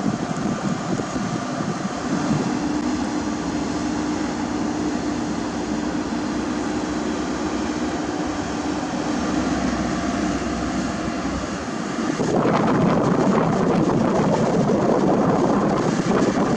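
Diesel heavy paving machinery running steadily, with a steady hum through the middle. About twelve seconds in, a louder, rougher machine noise takes over.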